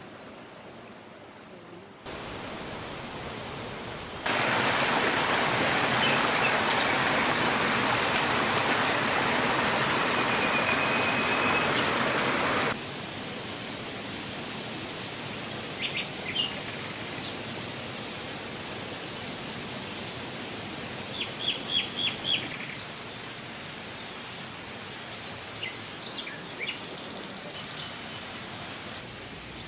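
Outdoor ambience: a steady rushing noise that jumps up sharply about four seconds in and drops back about thirteen seconds in. Birds chirp over it, with a quick run of four chirps past the twenty-second mark and more near the end.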